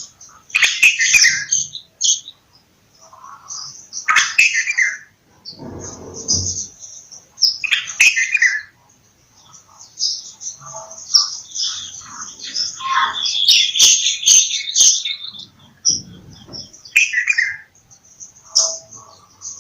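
Bulbuls calling and chattering in a busy stream of short bubbly phrases, several of them sweeping down in pitch. A brief low rumble comes about six seconds in and again near the end.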